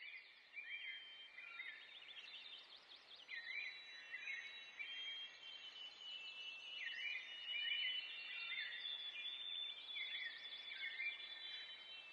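Birds chirping and singing in a faint outdoor chorus of short, repeated calls.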